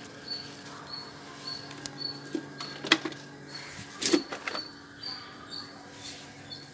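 Background sound in a garden: short, high-pitched chirps repeating about twice a second over a steady low hum, with a few sharp clicks, the loudest about three and four seconds in.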